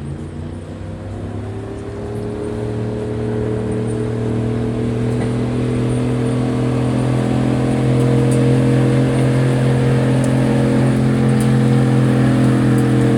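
Gasoline engine of a stock gas-class pulling vehicle at full throttle, dragging a pulling sled. The revs climb over the first few seconds, then hold high and steady while the sound grows louder.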